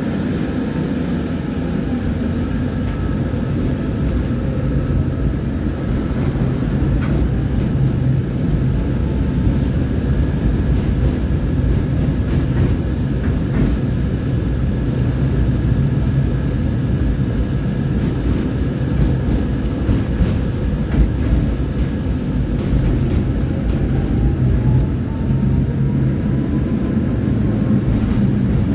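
Tram running along the line, heard from on board: a steady low rumble of wheels on rails. A faint whine glides in pitch a couple of times, and there are occasional light clicks.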